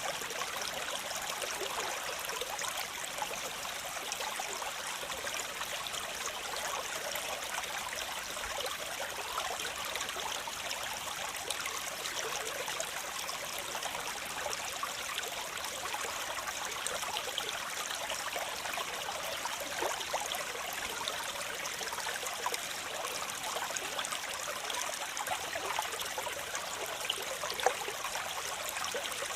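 Waterfall: a steady rush of splashing water, mostly high and hissy with little deep rumble. One slightly louder splash comes near the end.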